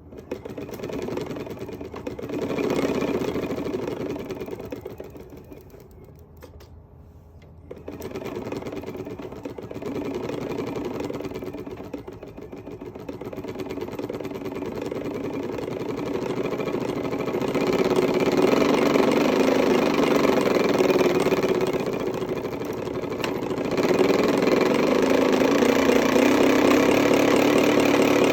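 A bicycle's homemade fake-engine noise maker, built from a plastic surume-peanuts snack container, buzzing like a small motor as the wheel turns. It rises and falls with riding speed, fading about five to seven seconds in and loudest in the second half, and drops in pitch at the very end.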